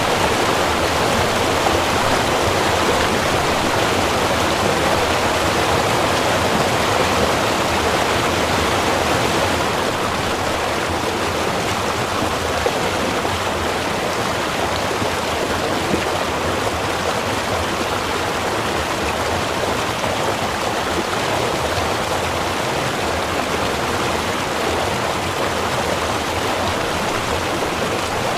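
Small river or stream running, a steady rushing of water that eases a little about ten seconds in.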